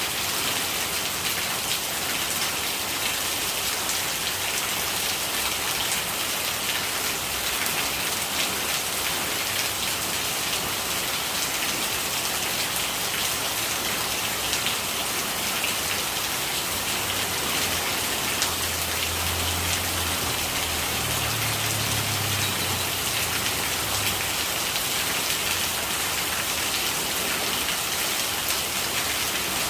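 Steady rain falling, a dense patter of drops with rainwater gurgling. A low rumble swells and fades about two-thirds of the way through.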